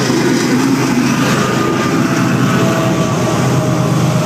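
Double-stack intermodal freight cars rolling past at speed: a loud, steady low rumble with faint steady tones above it.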